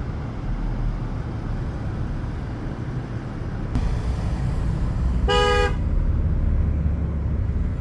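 Vehicle rumble that grows louder about four seconds in, then one short car horn toot a little over five seconds in.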